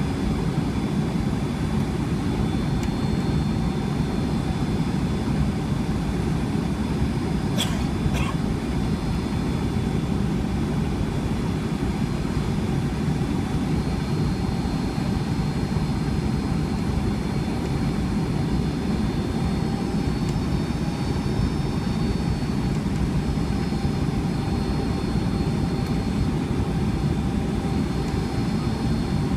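Steady cabin noise inside a Boeing 757 airliner: a dense rumble of engines and airflow with faint steady whining tones above it. There is a brief click about eight seconds in.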